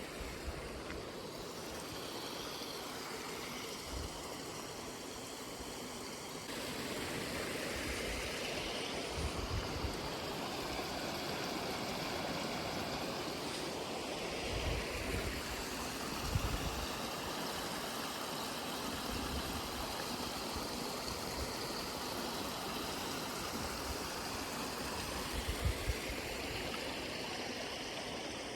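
Water running steadily in a small brook, a continuous rushing and gurgling that gets a little louder about six seconds in, with occasional low thumps.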